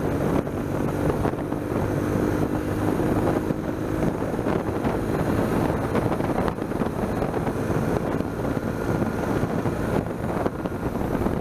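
BMW R1200GS boxer-twin engine running at a steady cruising pace, with wind rushing over the microphone.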